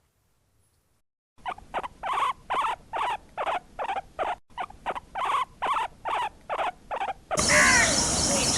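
A series of short, evenly repeated animal calls, about two to three a second, starting after a second or so of silence. Near the end it gives way to a steady hiss with birds calling.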